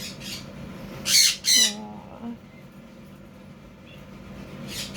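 Quaker parrot giving two short calls in quick succession about a second in, with fainter calls near the start and end.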